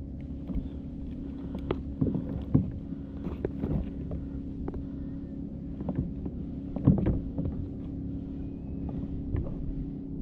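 Boat motor running steadily at trolling speed, a low even hum, with a few short knocks on the boat, the loudest about seven seconds in.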